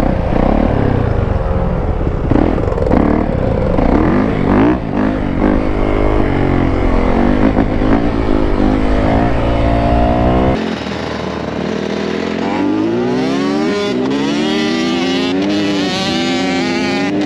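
Dirt bike engine revving up and down as the bike is ridden, over heavy wind rumble on the microphone. About ten seconds in, the sound cuts abruptly to another stretch of riding, where the engine's pitch climbs and wavers through the revs.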